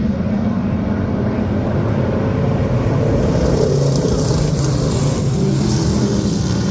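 Dirt-track race car engines running steadily and loudly, with a hiss in the upper range coming in about three seconds in.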